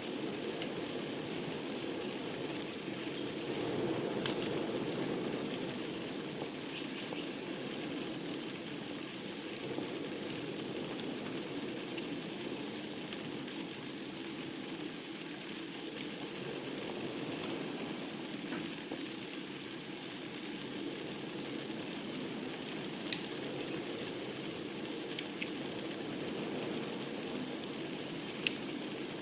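Wood fire burning in a fireplace: a steady low rush of the flames with scattered sharp crackles and pops of the burning logs, a few louder pops in the last third.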